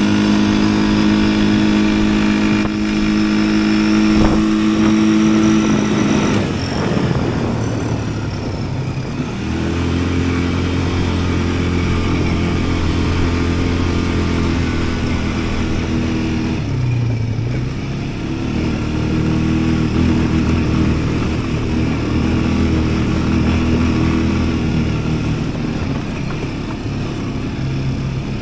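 Yuki Tract 200 ATV engine running while riding. It holds a steady pitch, falls away about six seconds in, then settles into a lower, steady run with a brief dip past the middle.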